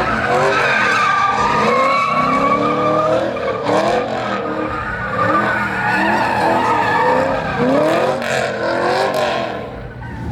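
Truck doing a burnout: tyres squealing while the engine revs up and down again and again, dropping off briefly near the end.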